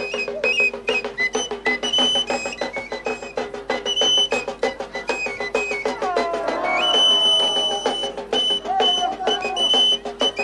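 Traditional folk music: a high pipe melody hopping between a few notes over a steady low drone and fast, even drumbeats.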